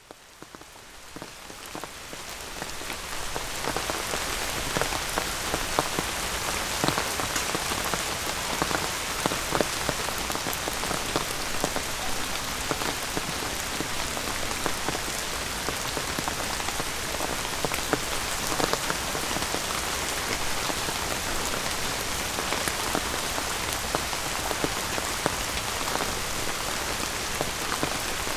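Steady rain falling, with many separate drop hits close by. It fades in over the first few seconds and then holds steady.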